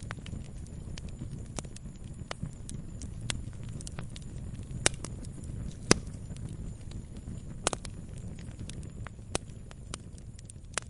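Wood campfire burning: a steady low rumble with frequent sharp crackles and pops, a few louder pops around the middle.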